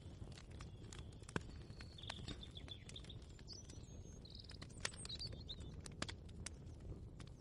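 Birds chirping in short calls, loudest around the middle, over a steady low rumble, with scattered sharp clicks and knocks.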